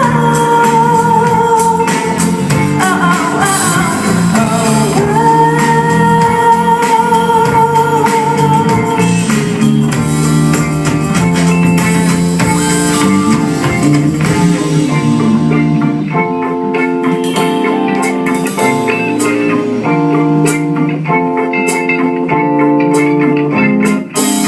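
Live band music: a singer holds long, wavering notes over electric guitar. About halfway through the voice stops and the guitar carries on with plucked notes.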